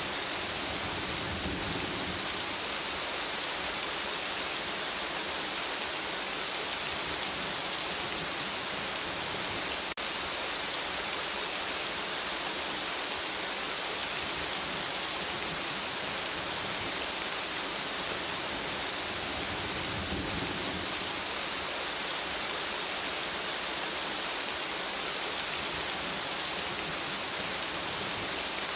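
Steady, dense rainfall in a forest, drops hissing and pattering on leaves. There are two brief low rumbles, about two seconds in and again near the twenty-second mark.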